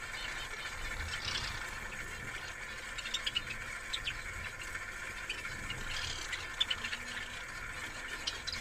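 Small pet birds giving short, scattered high chirps over a steady background hiss.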